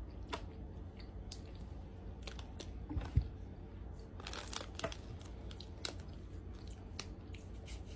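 Quiet chewing of a soft chocolate marshmallow pie, with scattered small mouth clicks and light crinkles, and one low thump about three seconds in.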